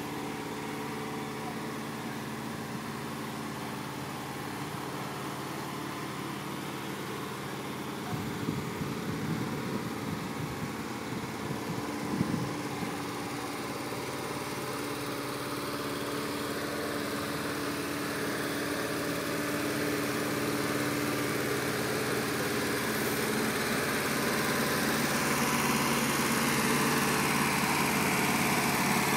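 1980 Volkswagen Transporter's air-cooled flat-four engine idling steadily, with a brief knock about twelve seconds in; it grows gradually louder over the last third.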